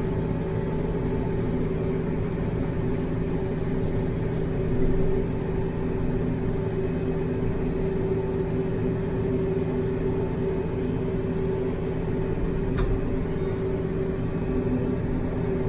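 TYM T574 tractor's diesel engine running steadily under load while driving a rotary tiller, with a steady mechanical hum. A single sharp tick about three-quarters of the way through.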